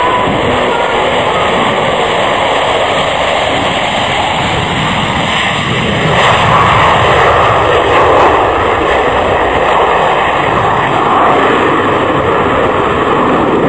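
Aircraft flying past with loud, steady engine noise that swells about six seconds in.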